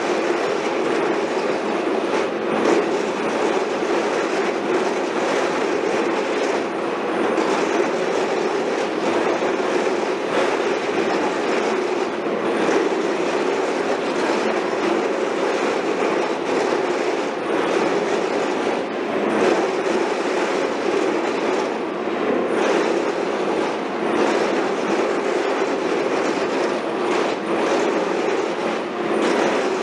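Heavy construction machinery running steadily, with a continuous rattle of small knocks and clanks.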